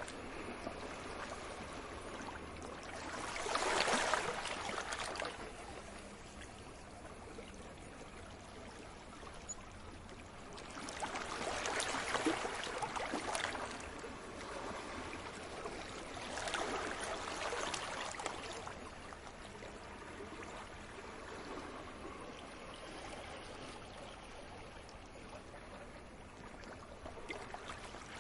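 Ocean waves washing in, the rushing sound swelling and fading every few seconds, with the biggest surges a few seconds in and about twelve seconds in.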